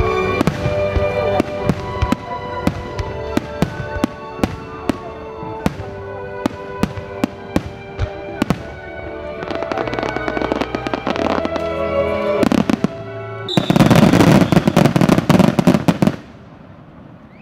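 Aerial fireworks shells bursting in a rapid series of sharp bangs, about two a second, with music playing underneath. About 13.5 s in, a dense, loud volley of crackling bursts runs for about two and a half seconds, then cuts off suddenly.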